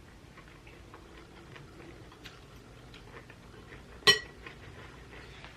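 Faint small clicks of tableware while eating, with one sharp, ringing clink of a utensil or dish about four seconds in.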